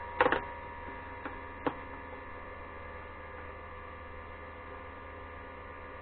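A steady electric hum, with a quick cluster of light clicks near the start and two single clicks about a second later, the sound of a drill and collet being handled and fitted.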